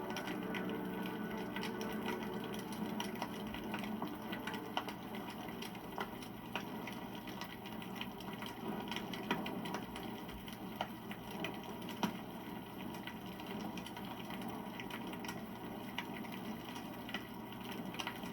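Wood campfire crackling, with dense small snaps and a few louder pops.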